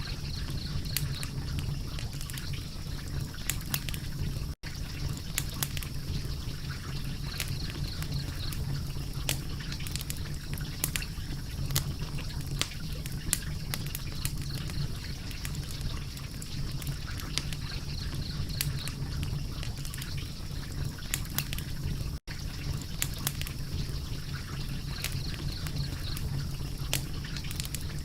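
Wood fire burning with a steady low rumble and frequent sharp crackles and pops. The sound drops out for an instant twice.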